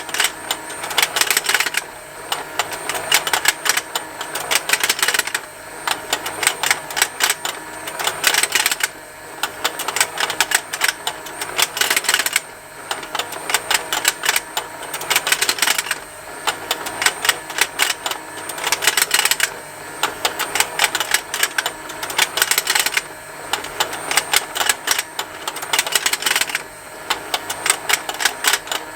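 Plastic rotating fishing game toy running: its motor and gears tick continuously with snapping plastic from the fish. The rapid clicking swells louder about every three and a half seconds.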